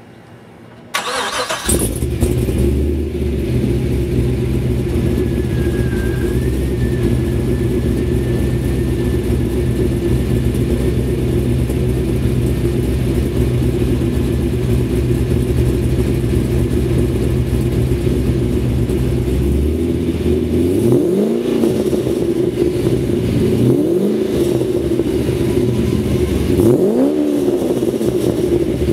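2006 Pontiac GTO's 6.0-litre LS2 V8 starting up about a second in, then idling steadily through a Bassani cat-back exhaust with Kooks headers, catless mid-pipes and an aftermarket cam. Near the end it is revved three times, each rev rising and falling back to idle.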